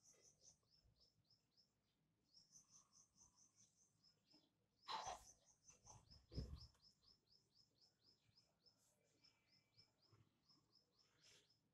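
A small bird chirping over and over, faint short high notes about four or five a second. A louder rustle about halfway through and a low thump just after it stand out.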